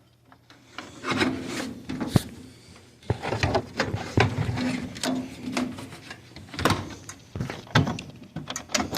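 Hands working on a furnace cabinet: irregular rubbing and scraping with scattered knocks and clicks.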